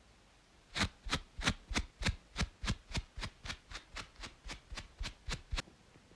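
Rapid, rhythmic scratching strokes on a braided scalp, about seventeen quick scrapes at three to four a second, starting about a second in and stopping shortly before the end.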